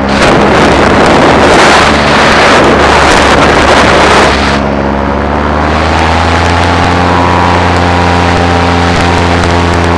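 Paramotor engine and propeller running steadily in flight, with heavy wind buffeting the microphone for the first four seconds. The engine's revs rise slightly about six seconds in.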